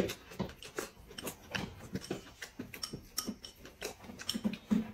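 Chopsticks clicking against a ceramic rice bowl as rice is shoveled into the mouth, with chewing: a quick, irregular run of light clicks, a few each second.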